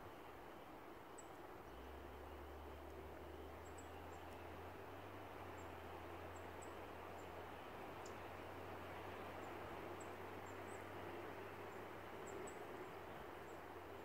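Faint woodland background: a steady hiss, with a low hum coming in about two seconds in, and scattered short, very high chirps of small birds.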